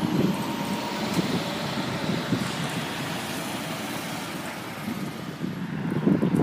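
A motor vehicle running nearby: a steady engine-and-road noise with no distinct events, easing a little later on.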